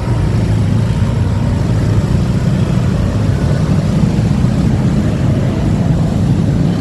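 Motorcycle riding heard from the rider's own camera: steady, loud wind rumble on the microphone mixed with engine and road noise.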